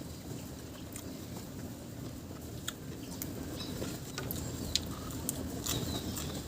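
Close-up eating sounds: chewing with scattered small clicks, more frequent in the second half, over a steady low rumble.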